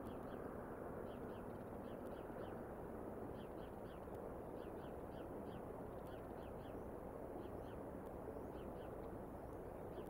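Birds calling in the distance, short calls repeated in quick groups of two or three throughout, over a steady outdoor hiss.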